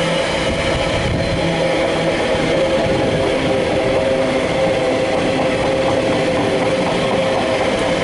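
Loaded container wagons of a freight train rolling past at steady speed: a continuous rumble of steel wheels on rail with steady ringing tones running through it.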